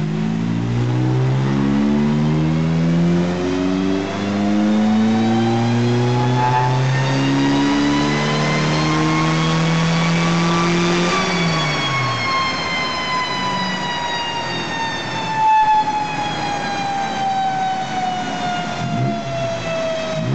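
MG TB's four-cylinder engine running on a rolling road. It pulls steadily up through the revs for about eleven seconds, then the revs wind slowly back down. A whine rises and falls in pitch with it.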